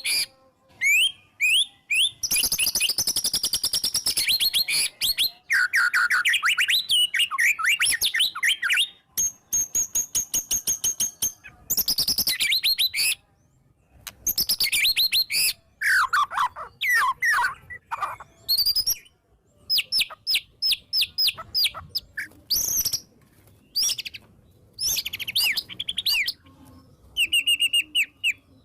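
White-rumped shama singing a loud, varied song: rapid rattling trills, a run of fast repeated high notes and sweeping whistled phrases, broken by short pauses.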